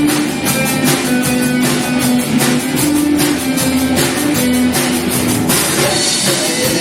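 Live rock band playing an instrumental passage, with a drum kit keeping a steady beat under held guitar notes. About five and a half seconds in, the low notes drop away and a cymbal wash comes up.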